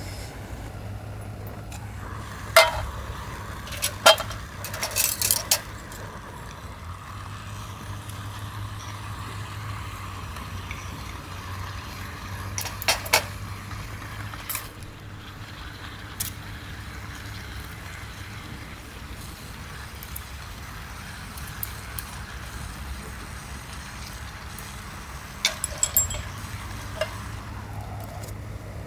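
A wood fire crackling, with scattered sharp pops and clicks over a steady low background hum.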